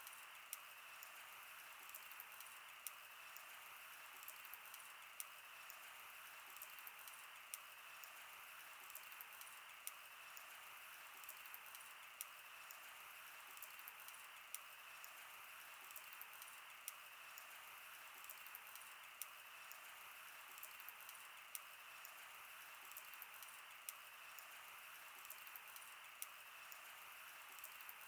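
Faint wood fire crackling, with irregular sharp pops several times a second over a steady soft hiss of burning.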